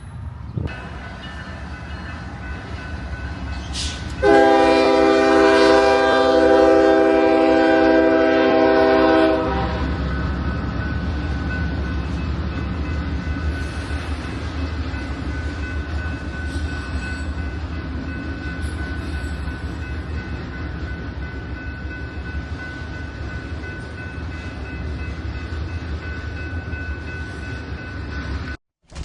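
A passing train sounds its horn in one long blast of about five seconds, the loudest thing heard. The train's low rumble runs under it and continues after it, with a faint steady high tone over it. The sound cuts off abruptly near the end.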